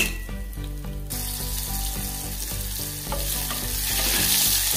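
Sliced onion and whole spices frying in hot oil in a small pressure cooker, stirred with a wooden spatula. The sizzle jumps suddenly louder about a second in as the onion goes into the oil, and stays strong.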